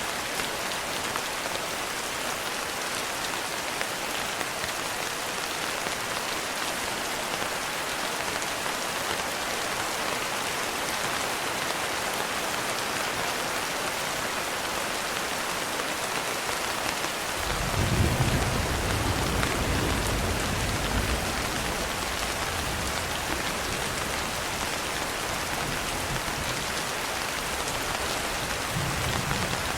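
Steady rain falling, with a low roll of thunder that swells up a little over halfway through, peaks for a few seconds and rumbles on more faintly, and a smaller rumble near the end.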